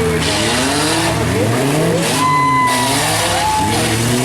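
Several compact pickup and van engines revving up and down at once in a demolition derby, with a brief steady high squeal about two seconds in.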